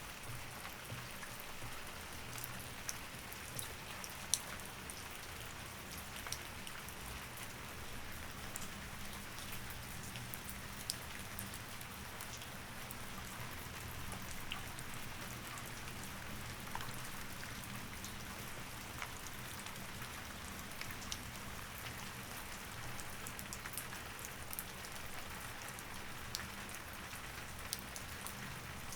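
Steady rain falling, with scattered sharp ticks of single drops over an even hiss, and a faint low hum underneath.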